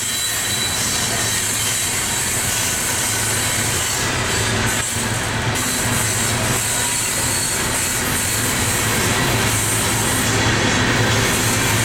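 Loaded coal train cars rolling past, a steady loud rumble and rail noise with a thin high wheel squeal running under it.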